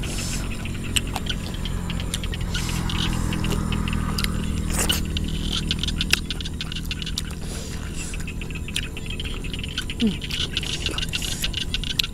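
Close-up wet chewing and mouth sounds of someone eating raw beef and fresh vegetables: many soft smacks and clicks. Behind it, frogs call in the evening field over a steady low outdoor rumble.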